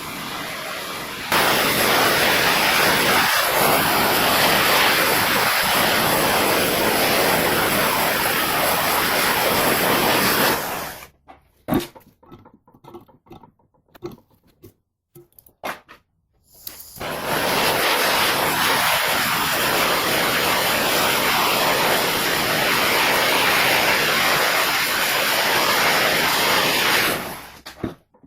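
Workshop tool giving a loud, steady rushing hiss, in two runs of about ten seconds each, with a few faint clicks and knocks in the pause between.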